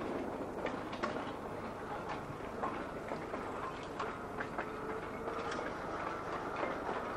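Narrow-gauge electric tram running along the track, with a steady rumble and irregular clicks from the wheels over the rails. A faint whine comes in about halfway through.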